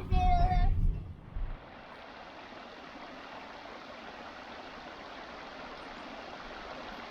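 Steady rushing of running water, an even hiss that swells slightly toward the end. A child's voice sings briefly at the very start.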